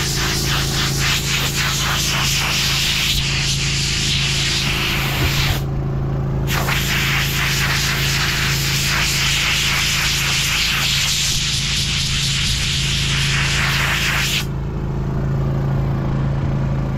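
Compressed air hissing as it blows out tractor filters, in two long blasts with a short break about five and a half seconds in, stopping near the end. A steady engine hum runs underneath.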